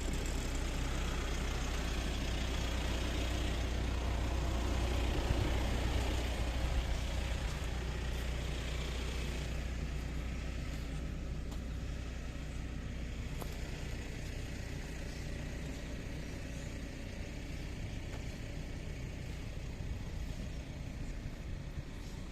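A motor vehicle's engine running with a low rumble, louder for the first several seconds and then fading to a quieter steady level, as if passing by.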